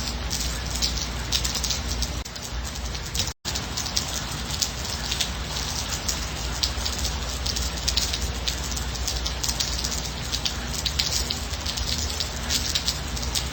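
Steady rain falling, a dense patter of drops striking a surface. The sound cuts out for an instant about three seconds in.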